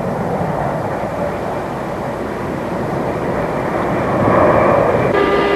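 Steady rushing noise of a Boeing 747 in flight, growing a little louder about four seconds in.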